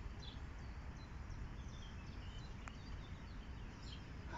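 Small birds chirping faintly now and then, short high calls over a steady low background rumble.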